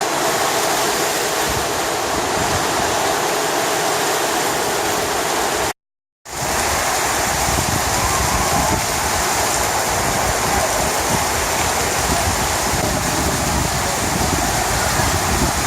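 Heavy tropical downpour: a loud, steady rush of rain pouring down. The sound cuts out completely for about half a second around six seconds in, then comes back with more low rumble.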